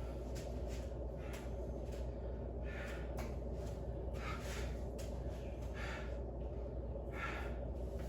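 A person breathing hard, several short noisy breaths over a steady low hum.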